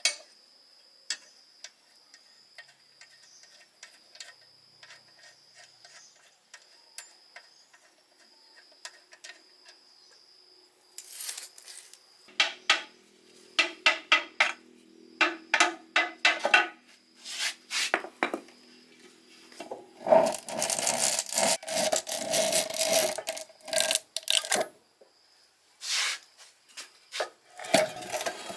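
Repeated hand scraping or rubbing strokes on a workpiece, starting about eleven seconds in after a stretch of faint clicks, and coming thickest near the middle.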